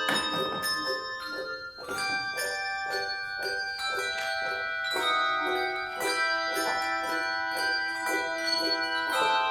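Handbell choir playing: handbells struck a few times a second, their clear tones ringing on and overlapping into sustained chords.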